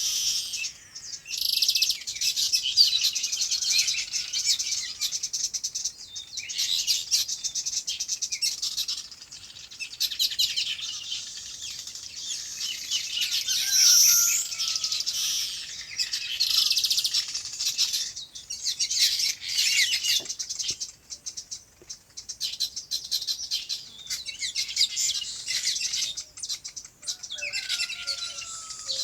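Many small birds chirping and twittering together, rapid high-pitched notes in bouts that swell and fade every few seconds, with a few lower sliding calls now and then.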